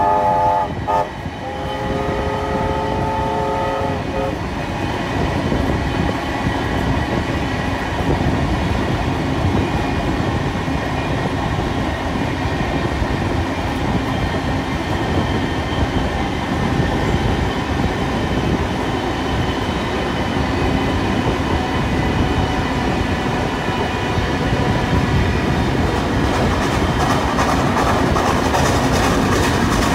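Two steam-hauled trains running side by side at speed, heard from an open carriage window: a steady rumble and clatter of wheels on rail. A multi-note train whistle sounds for the first few seconds, breaking off briefly about a second in. Near the end a fast, regular beat comes through the noise.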